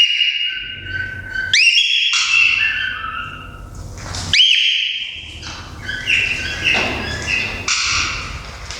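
Cockatiel whistling: rising swoops into held notes, about a second and a half in and again about four seconds in, followed by a run of short stepped notes.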